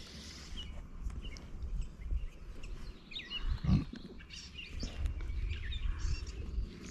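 Small birds chirping in short, scattered calls over a low rumble, with a low thud about halfway through.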